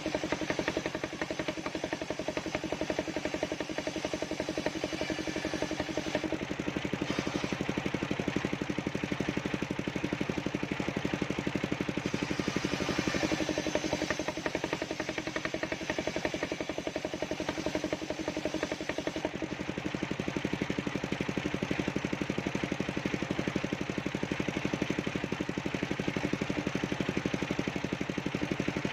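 Engine-driven mobile circular sawmill running steadily while splitting sengon logs. The engine note shifts slightly a few times as the load changes.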